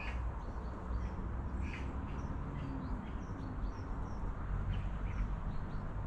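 Small birds chirping with short, scattered calls in the surrounding trees, over a steady low rumble.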